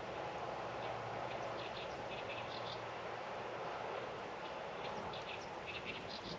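Outdoor rural ambience: a steady background rush with two bursts of short, high, rapidly repeated chirps from a small animal.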